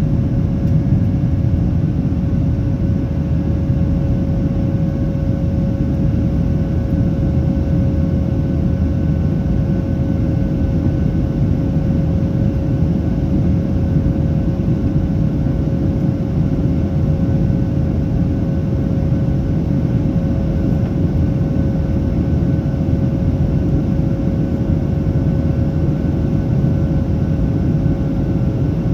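Steady cabin drone inside a Boeing 737-800 heard from a rear economy seat: its CFM56-7B engines and the airflow make a constant low rumble, with a steady whining tone over it.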